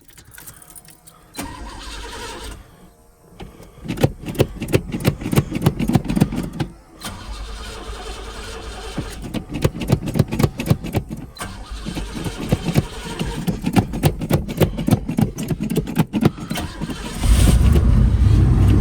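Cold start of a 1990 Buick LeSabre Estate wagon's V8 after a week of sitting: the starter cranks in long stretches with a short pause between. Near the end the engine catches and settles into a steady, louder run.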